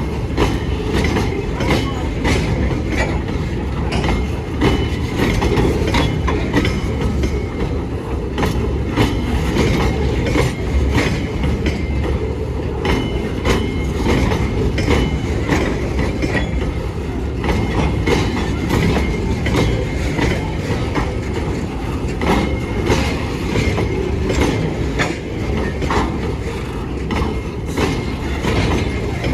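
Loaded freight train wagons rolling past, a steady heavy rumble with wheels clicking and clanking irregularly over rail joints and now and then a faint high wheel squeal.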